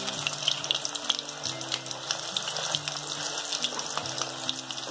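Hot oil sizzling and crackling steadily as marinated fish pieces deep-fry in a pan.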